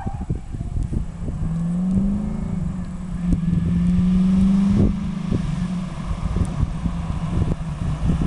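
A Camaro V8 with an M20 four-speed, approaching under power. Its engine note climbs about two seconds in, holds, then drops abruptly about five seconds in. Low wind buffeting on the microphone runs underneath.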